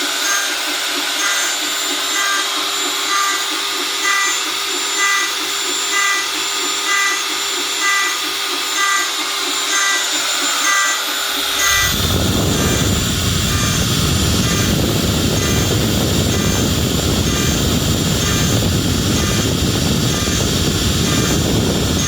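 DIY CNC router with Nema 17 stepper motors trochoidal milling aluminium: the spindle runs steadily while the steppers whine in a regular pulsing pattern about twice a second as the cutter loops. About halfway a loud steady rushing noise comes in over it and cuts off suddenly near the end.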